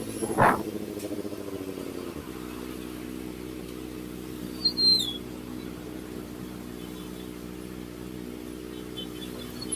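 Kawasaki ZX-4RR's inline-four with an SC Project exhaust running steadily at low revs, easing down and settling about two seconds in. There is a short sharp sound about half a second in, and a brief high chirp around the middle and again near the end.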